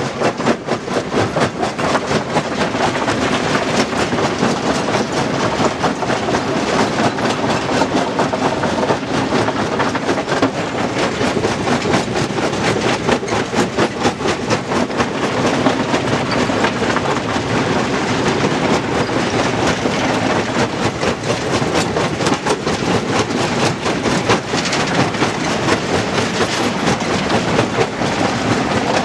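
Stone crusher running, a dense, steady clatter of rock being broken and rattling through the machine.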